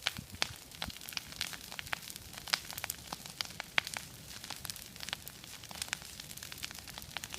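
Campfire crackling: irregular sharp pops and snaps over a faint hiss.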